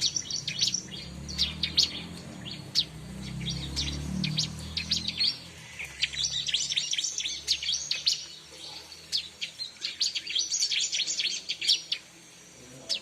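Bar-winged prinia (ciblek) calling: rapid series of short, high, sharp chirps that come in quick bursts, densest in two flurries in the second half.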